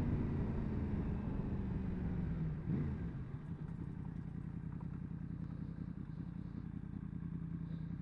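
Yamaha MT-10 SP's crossplane inline-four engine running at low revs, with a brief change in revs just under three seconds in, then settling into a steady idle.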